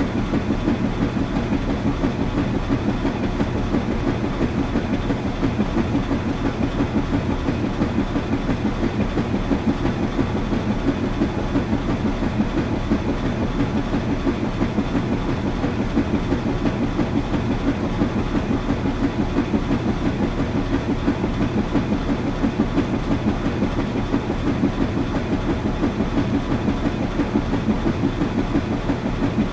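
Washing machine running steadily, with a fast, even, pulsing low hum that does not change.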